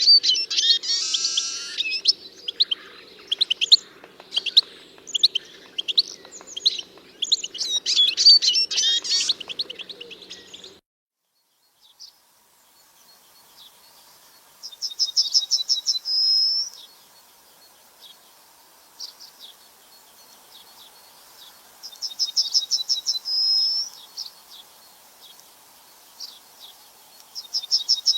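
Birdsong. At first several birds sing and chatter over one another in quick, high notes; after a break about eleven seconds in, a single bird repeats one short song three times, each a rapid run of notes ending in a higher flourish, about every six to seven seconds.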